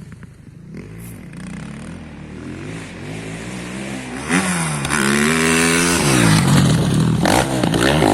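Motocross bike engine revving, its pitch rising and falling several times, getting much louder about halfway through.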